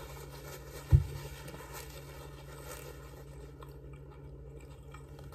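Quiet eating sounds: a person chewing with the mouth closed while handling a paper napkin, over a steady low hum. A single dull thump about a second in is the loudest sound.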